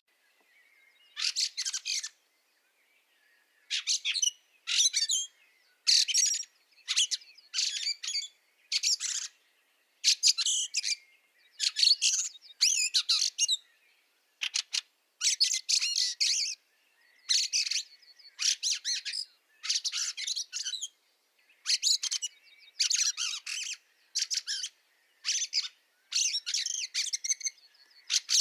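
Fieldfare chattering: short bursts of rapid calls, repeated about once a second with brief gaps between them.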